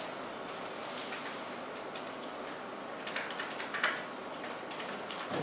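Scattered clicking of computer keys and mice over a steady background hiss.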